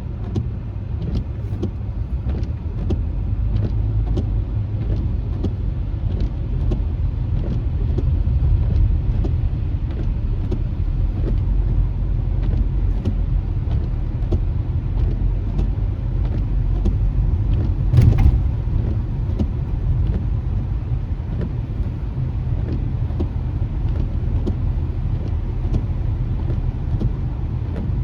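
Car driving on a wet road, heard from inside the cabin: a steady low rumble of tyres and engine, with faint scattered ticks. A single sharp knock comes about 18 seconds in.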